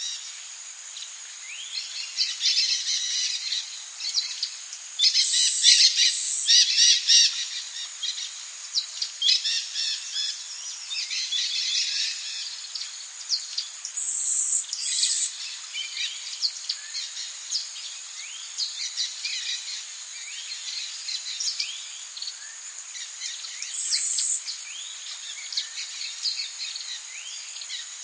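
Rainforest ambience: many birds calling and chirping in quick overlapping phrases over a steady high insect drone. Several louder, high insect buzzes come through, at about 5, 14 and 24 seconds in.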